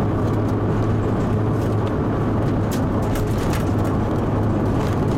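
Rally car's engine running at a steady cruise with tyre and road noise, heard from inside the cabin: an even drone with no revving, and a few light clicks or rattles.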